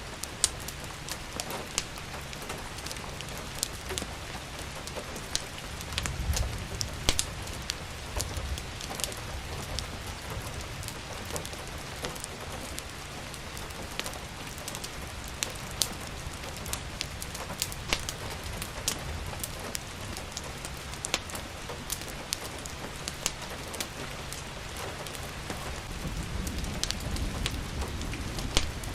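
Steady rain hiss with a wood fire crackling, sharp pops scattered irregularly throughout. A low rumble swells briefly about six seconds in and again near the end.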